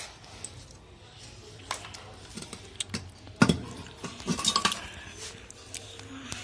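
Metal clinks and knocks from tools and loose metal parts as an air compressor's pump is taken apart to remove its cylinders. The knocks are scattered, with the loudest about halfway through and a quick run of clinks just after.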